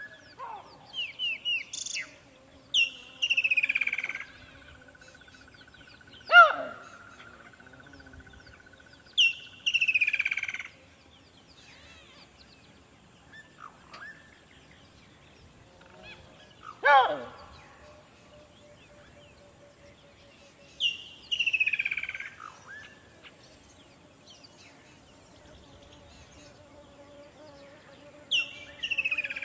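Birds calling: a phrase of a short rising note followed by a long falling whistle repeats about every six or seven seconds. Quick chirps come at the start, and two sharper calls, the loudest sounds, come in between.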